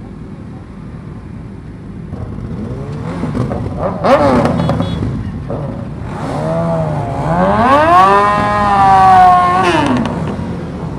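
Superbike engines revving. A short sharp rev comes about four seconds in, then a longer rev climbs, holds high and drops off near the end.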